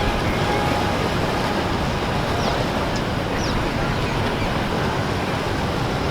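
Steady rush of water and wind with boats running through the water, with no distinct engine note standing out. A few faint short high chirps come about halfway through.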